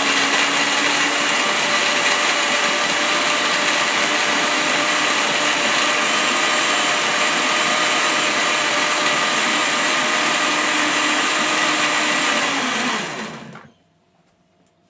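Electric blender running steadily, grinding celery and lemon with a little water, then switched off about 13 seconds in and winding down quickly to silence.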